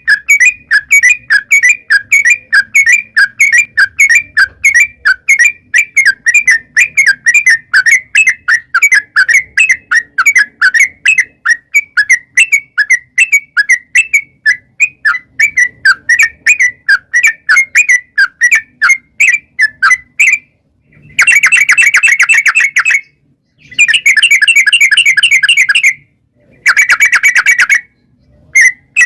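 Yellow-vented bulbul (trucukan) song: a long run of short, loud chirping notes, about three a second, then after about twenty seconds three fast rattling trills separated by short silences.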